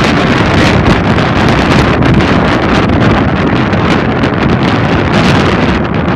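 Loud wind buffeting the microphone of a moving car's occupant, over the steady rush of the car on the road.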